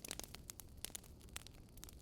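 Campfire burning softly, with faint, irregular crackles and pops from the burning wood, several a second, over a low steady hiss.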